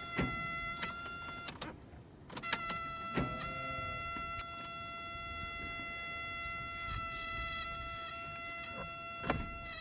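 A cab warning buzzer on an old Isuzu truck, sounding a steady electric buzz with the key on. The driver puts the buzz down to air pressure that has not yet built up. It cuts out for about a second near two seconds in, and there are a few sharp clicks.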